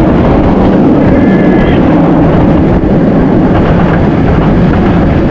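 Wind buffeting a chest-mounted camera's microphone: a loud, steady low rumble with no break, as from fast movement through the air on a ride.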